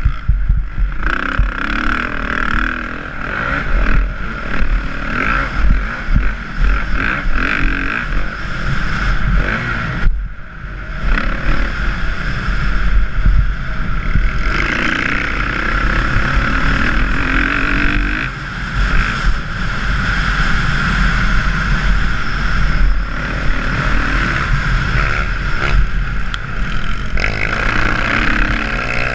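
Dirt bike engine being ridden hard, revving up and down with the throttle, easing off briefly about ten seconds in before pulling again, over a deep rumble.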